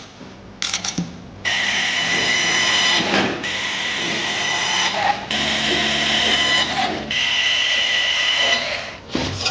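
A power tool with a high whine running in about four bursts of a second and a half to two seconds each, after a few short knocks in the first second.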